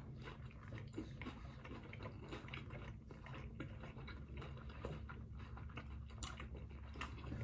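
Faint chewing and mouth sounds of people eating tacos: soft, irregular little clicks and smacks over a low steady hum.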